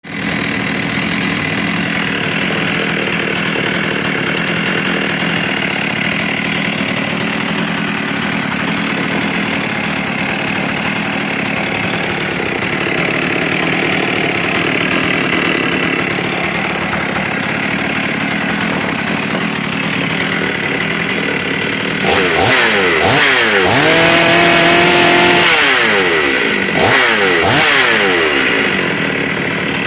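Stihl MS 382 two-stroke chainsaw idling steadily, then revved up about three-quarters of the way in, held at high speed for a second or so, let drop and revved again near the end: a test run after a complete overhaul.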